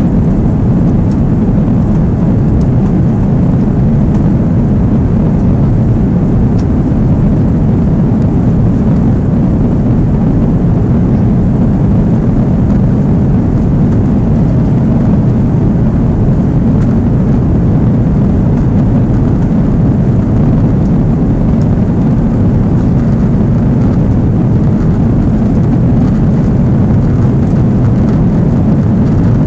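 Steady roar of an Airbus A330's engines and rushing air, heard from inside the cabin, neither rising nor falling.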